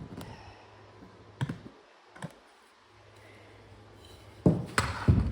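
Pieces of lumber knocking and clattering as they are handled and set in place: a couple of light clicks, then a quick run of louder knocks near the end.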